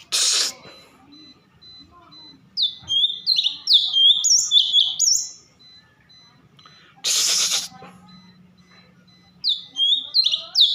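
Cucak cungkok songbird singing in two quick phrases of clear, sliding whistled notes, one after about two and a half seconds and one near the end. Two short, loud bursts of noise come at the start and about seven seconds in.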